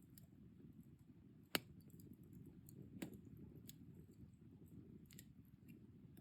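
Wood fire in a fire pit burning quietly with a low, steady rumble and sharp crackling pops: a loud one about a second and a half in, another around three seconds, and a few fainter ones after.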